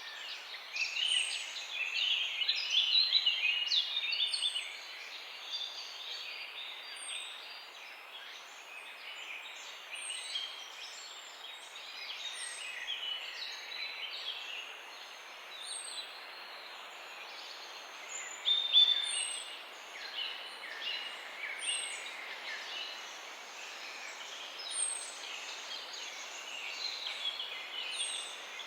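Several small birds chirping and singing together in a dense, overlapping chorus, busiest in the first few seconds, over a steady hiss. A short, thin, high note falls in pitch and repeats about every two seconds.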